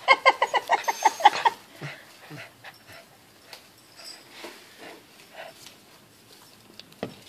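Dog whining in a quick run of about ten short, high yips over the first second and a half, then only faint scuffling.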